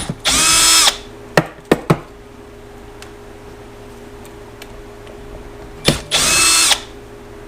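Handheld power drill or driver run in two short bursts of about half a second each, about six seconds apart, its motor spinning up quickly and holding pitch. A few sharp clicks and knocks of tool handling come between the bursts.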